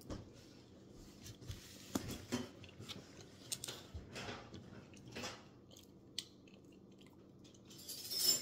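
Close chewing and biting of a waffle: soft wet crunches and small mouth clicks. A brief louder noise comes near the end.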